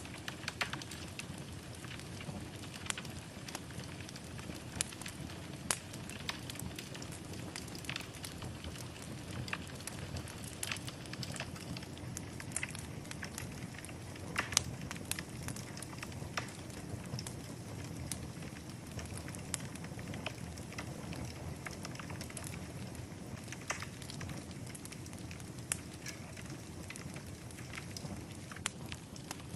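Wood fire burning in a fireplace, a steady low rush of flames with frequent irregular crackles and pops.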